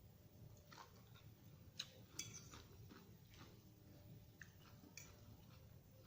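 Faint, scattered clicks and soft crunches of someone chewing a raw vegetable salad, about five small ticks in all.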